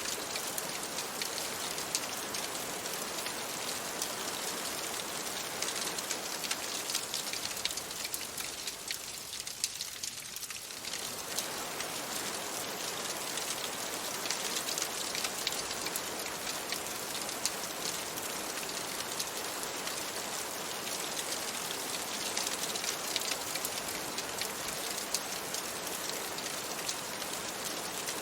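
Steady rain falling on a window, dense and even, with many small sharp ticks of drops or fireplace crackles mixed in. The rain briefly thins about a third of the way in.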